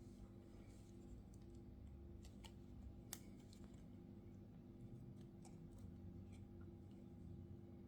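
Near silence: a faint steady room hum with scattered soft clicks and ticks of small tools working on an iPhone 7 during disassembly, the sharpest about three seconds in.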